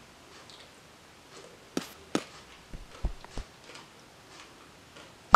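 A metal spoon clicking against a clay soup bowl a few times while someone eats: two sharp clicks about two seconds in, a few low dull bumps just after, and one more sharp click near the end.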